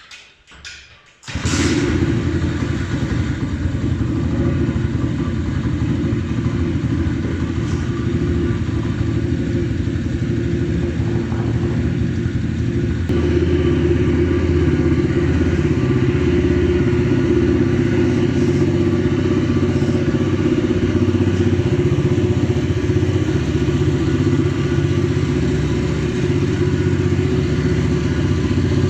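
Telstar 125cc pit bike's single-cylinder four-stroke air-cooled engine starts about a second in and keeps running steadily, a little louder from about halfway.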